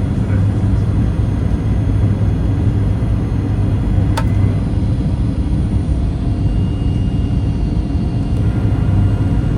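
Steady low rumble of cabin noise inside a Boeing 737 MAX 8 airliner on descent. A single short click sounds about four seconds in.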